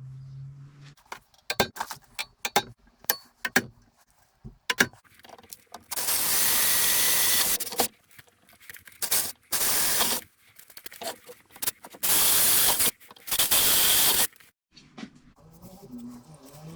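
Several light clicks and rattles of small parts being handled, then four bursts of pressurised spray hissing, each a second or two long and cutting on and off sharply.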